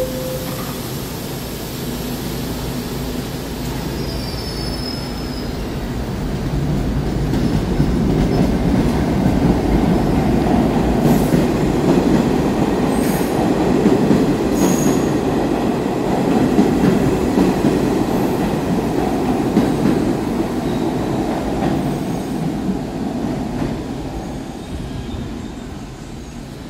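New York City subway train running through the station on steel rails. Its rumble grows louder, holds for several seconds, then fades, with a few brief high wheel squeals and clicks.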